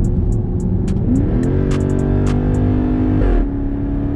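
2012 Jeep Grand Cherokee SRT8's 6.4-litre HEMI V8 accelerating through a straight-pipe exhaust. The engine note rises about a second in, holds, and changes pitch briefly about three seconds in, as at a gear change.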